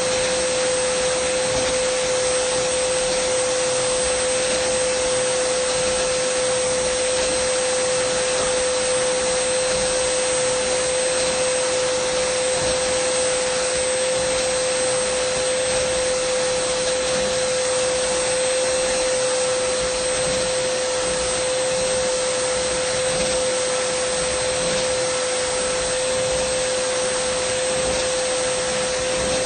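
Dyson vacuum cleaner running steadily: a constant rushing hiss of air with a steady motor whine.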